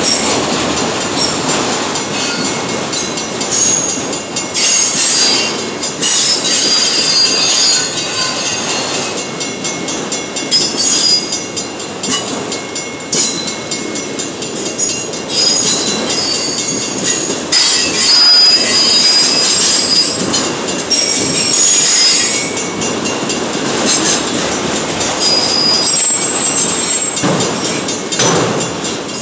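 Freight train's autorack cars rolling past close by, a steady run of steel wheels on rail with high-pitched wheel squeals that come and go.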